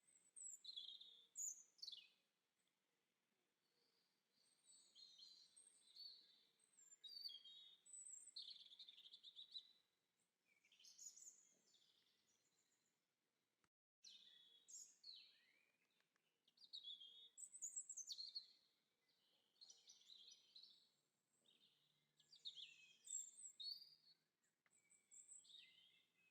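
Faint birdsong: a string of short high chirps and warbled phrases, one after another, broken by a brief gap about halfway through.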